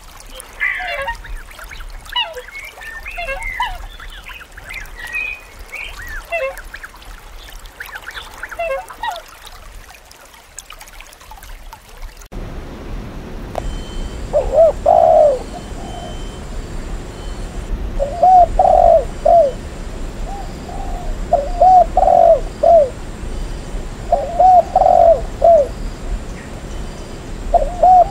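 Spotted dove cooing: short phrases of about three arching notes, each phrase about a second long and repeated every three seconds or so, starting about twelve seconds in. Before that come scattered high bird chirps and calls.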